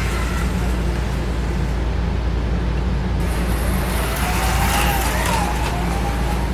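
Small electric motors of HO slot cars whining past, the pitch rising and then falling about five seconds in. A steady low hum runs underneath.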